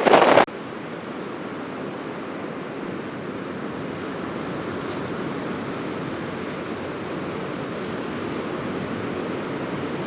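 Loud wind buffeting on the microphone that cuts off suddenly about half a second in, followed by a steady, even rushing noise with no bangs in it.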